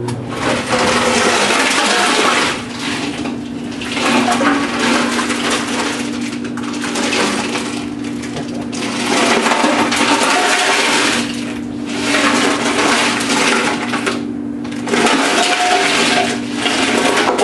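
Clothes dryer tumbling a blanket-wrapped motorcycle gas tank loaded with loose bolts and nuts, the hardware rattling and clattering inside the tank as it scours off rust, over a steady motor hum. The clatter swells and eases every few seconds as the drum turns.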